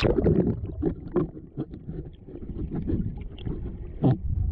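Wind rumbling on the microphone, with scattered knocks and rustles throughout and a louder knock near the end.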